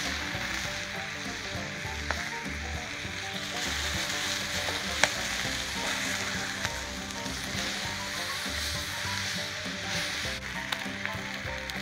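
Chicken breast frying on an iron griddle, sizzling steadily, with a few sharp pops, the loudest about five seconds in.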